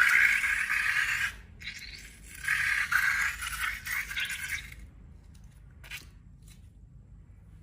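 Scraping, rustling noise of slime-making materials being handled, in two stretches of about a second and a half and two and a half seconds, then a few faint clicks near the end.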